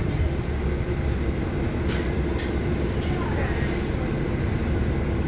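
City bus driving, heard from inside: a steady low engine and road rumble, with two sharp rattling clicks about two seconds in.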